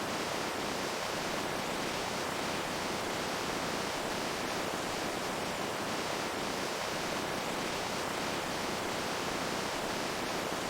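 Water running with a steady, unbroken rush, with faint tiny splashes on top.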